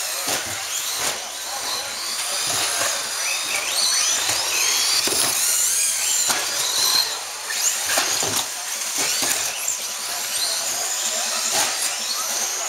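Several RC stadium trucks racing together, their motors whining and gliding up and down in pitch as they accelerate and back off, with scattered short knocks.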